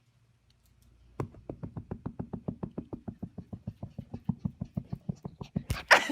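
Rapid, even tapping, about ten taps a second, that starts about a second in and runs for several seconds, with a louder knock near the end.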